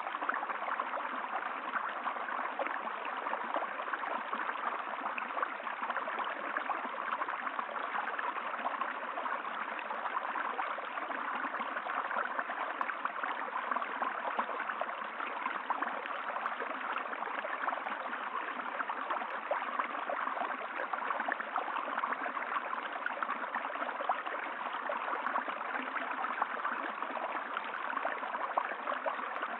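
Steady running water of a stream, an even gurgling flow.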